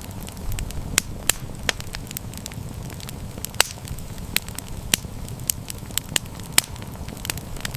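Wood campfire burning with a low steady rumble of flames and sharp, irregular crackles and pops several times a second.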